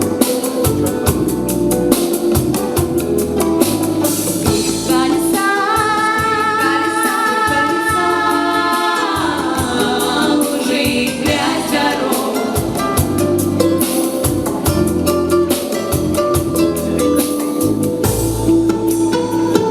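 Girls' vocal quartet singing in harmony over a backing track with drums, holding a long chord about six seconds in.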